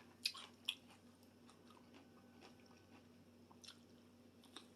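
Quiet close-up chewing of a cucumber salad topped with onions, tomato, ham and croutons, with a few sharp wet mouth clicks, two near the start and a couple near the end.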